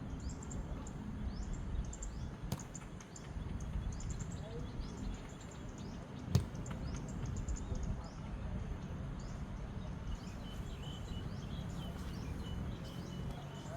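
Birds chirping with many short, high, downward-sweeping calls over a steady low outdoor rumble, with a single sharp knock a little past the middle.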